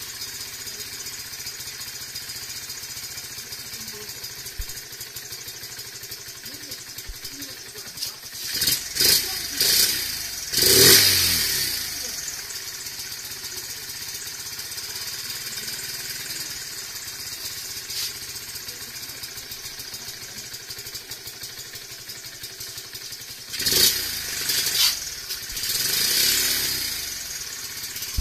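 Honda Gorilla's bored-up single-cylinder four-stroke engine (likely 88cc, Mikuni VM26 carburettor, stock muffler) idling steadily. It is revved in a few short throttle blips about a third of the way in, and again near the end.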